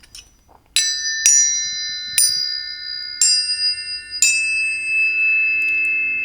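Five struck bell-like metal tones, each ringing on so the notes pile up into a sustained shimmering chord.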